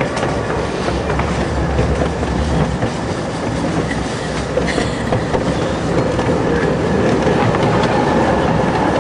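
Open passenger cars of a miniature 15-inch-gauge steam railway rolling along the track: a steady rumble and rattle, with the wheels clicking now and then over the rail joints.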